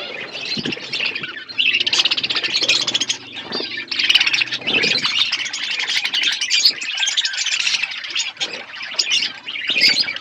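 Budgerigars chattering and warbling: a dense, continuous stream of quick, high chirps and squawks from several birds.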